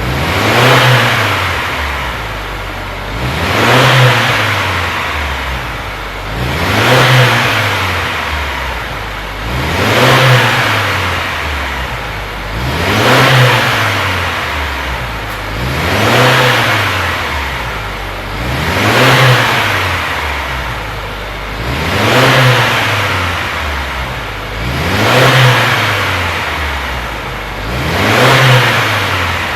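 Subaru WRX S4's turbocharged flat-four engine revved again and again through a Kakimoto aftermarket exhaust muffler, each rev climbing and falling back in an even cycle about every three seconds, about ten times.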